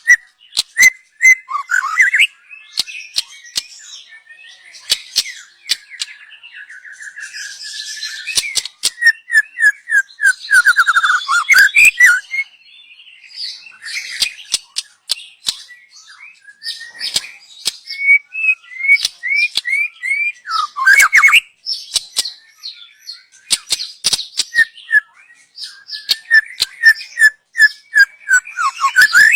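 Young white-rumped shama singing: a varied run of whistled phrases and quick repeated notes, mixed with many sharp ticking calls, with a few short pauses.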